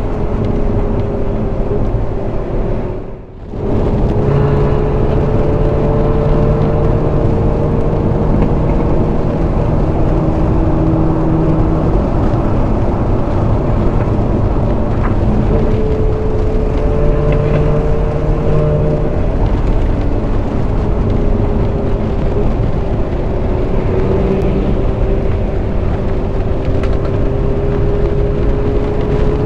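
Ferrari 458 Spider's 4.5-litre V8 running steadily at highway cruise, mixed with wind and road noise, its tone drifting slowly up and down. The sound dips briefly about three seconds in.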